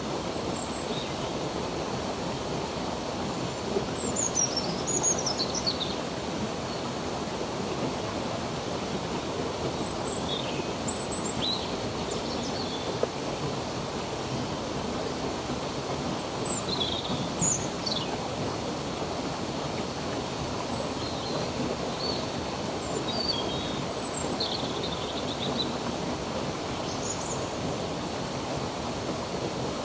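Running water flowing steadily, with birds chirping here and there in short, high calls over it.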